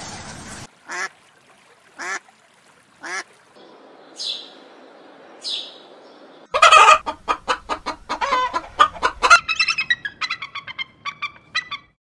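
Birds calling. First come three short calls about a second apart, then two thin, higher calls. From about halfway a loud, fast run of repeated chattering notes sets in, breaking into higher, quicker notes near the end.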